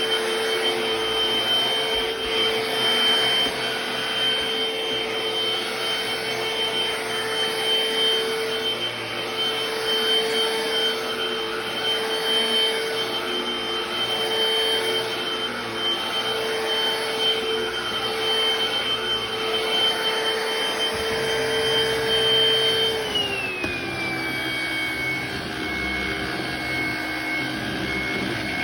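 BLACK+DECKER POWERSERIES+ 16V MAX cordless stick vacuum running with a steady motor whine. Near the end, its pitch slides down and settles at a lower, steady whine as the motor slows.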